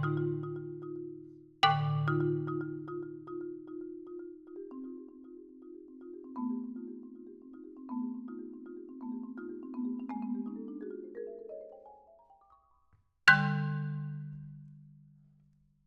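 Solo marimba played with four mallets: a loud low accented stroke, then rapid repeated notes that climb in pitch and fade away. After a short pause, one last loud low stroke rings out and dies away.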